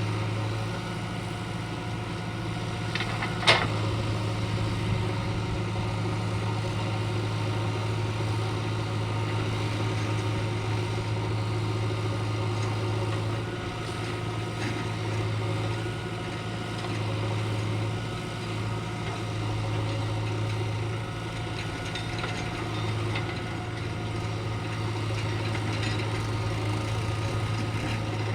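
Heavy diesel engine of earthmoving machinery running steadily, with a sharp metallic-sounding knock about three and a half seconds in and a smaller one a second later.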